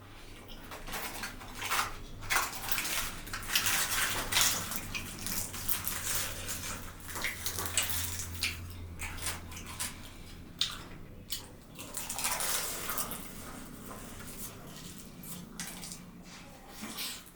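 Close-miked eating: wet chewing and squelching of food, a run of short noisy strokes, with clinks of a plate or utensils now and then.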